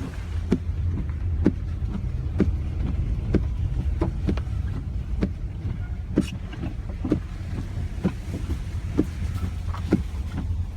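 Car running at low speed, with a steady low rumble and a sharp click repeating about once a second.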